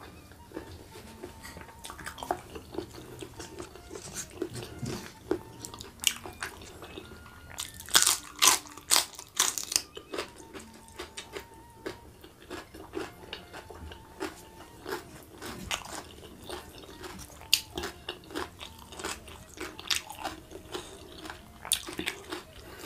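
Close-miked eating sounds: chewing and biting into crisp raw vegetables, with sharp crunches that come thickest and loudest about eight to ten seconds in, between quieter chewing.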